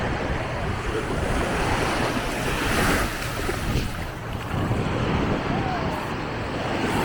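Small sea waves washing onto a sandy beach, swelling about three seconds in, with wind buffeting the microphone.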